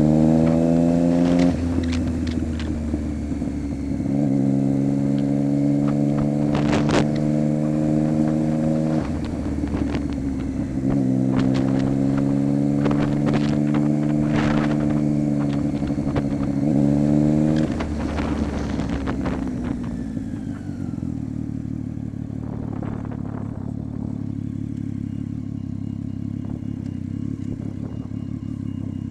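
Triumph Street Triple 675's inline three-cylinder engine through a Coffman exhaust with the baffle removed, held at steady raised revs three times for several seconds each and dropping back between. It then settles to idle for the last ten seconds or so. Scattered sharp clicks sound over it.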